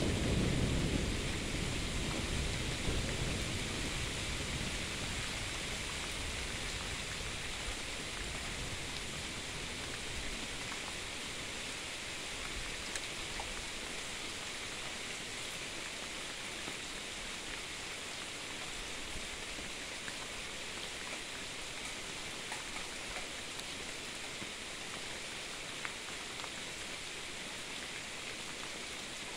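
Steady rain during a thunderstorm, the tail of a thunder rumble dying away over the first few seconds. After that the rain hisses on evenly, with occasional faint ticks.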